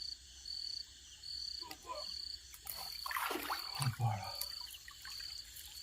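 Night-time riverside chorus: a high, pulsed call repeating evenly about every 0.7 s. A short burst of water splashing comes about halfway through.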